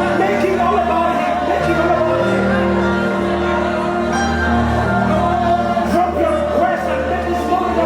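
Live worship music in a large hall: sustained chords over a steady bass, changing every couple of seconds, with a voice singing over them.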